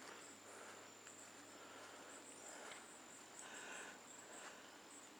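Near silence: faint outdoor background hiss with a thin, steady high-pitched tone.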